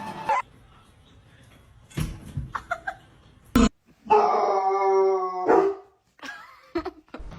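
A dog howling: one long, steady-pitched howl of about a second and a half, after a few short yelps and a sharp knock.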